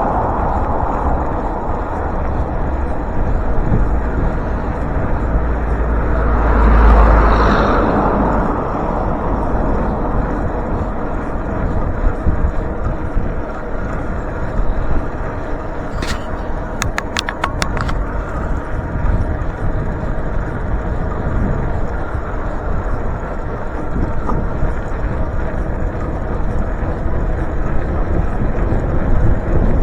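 Steady wind and road rush on the microphone of a rider cycling along a road, with a vehicle passing about seven seconds in. A short run of sharp clicks comes about sixteen seconds in.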